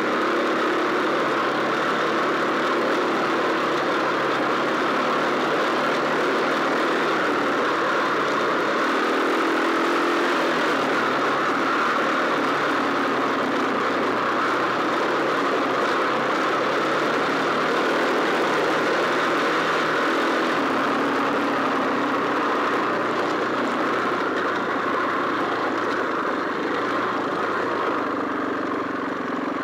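Off-road motorcycle engine running steadily while riding along a rough forest track, heard from a bike-mounted camera, under a constant rush of wind and track noise. The engine eases off briefly near the end.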